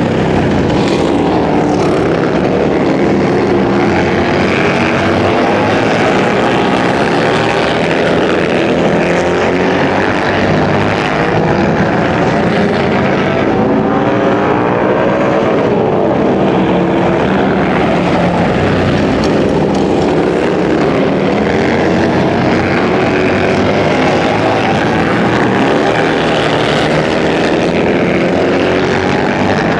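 Several racing motorcycle engines running hard together, their pitches rising and falling and crossing as the bikes circle the track.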